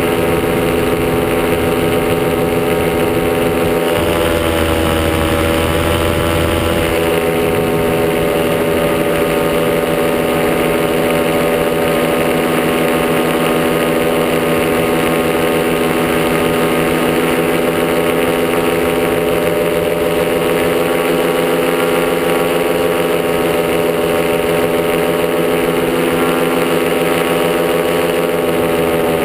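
Top80 single-cylinder two-stroke paramotor engine running steadily in flight, its note shifting slightly a few seconds in as the throttle changes.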